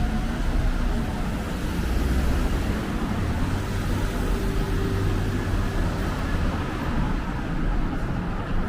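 City road traffic: vehicle engines and tyres making a steady low rumble, with engine hum running underneath.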